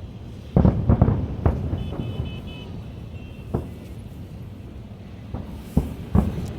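Aerial firework shells bursting: a quick cluster of booms about half a second to a second and a half in, a single boom near the middle, and two more toward the end, over a steady low rumble.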